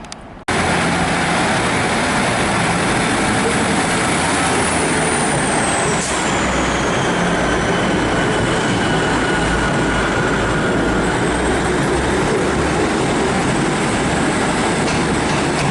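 A Class 156 Super Sprinter diesel multiple unit running loud and steady under power as it pulls away from the platform, with a high whine that falls in pitch about five seconds in. The sound cuts in abruptly about half a second in.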